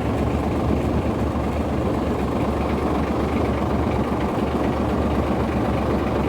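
A steady engine-like machine rumble with a low hum and no change in pitch or level.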